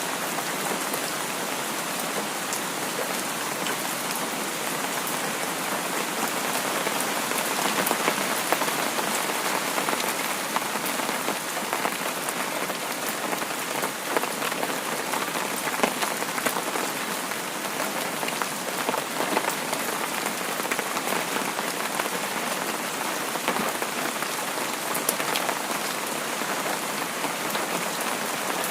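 Steady rain falling on a surface, an even hiss with many small drop ticks and no let-up.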